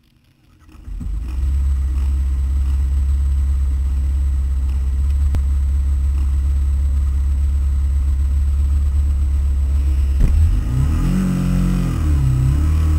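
Twin-cylinder racing motorcycle engines idling on the start grid, coming in about a second in, with one blip of the throttle, rising and falling back, about eleven seconds in.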